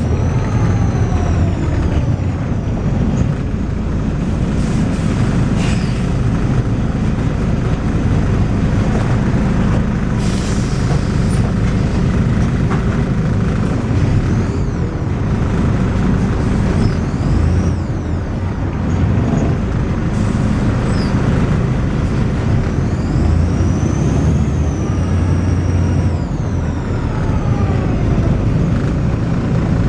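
Volvo B6LE bus under way: its diesel engine and ZF automatic gearbox running hard, with a strange high-pitched whine that rises and falls several times.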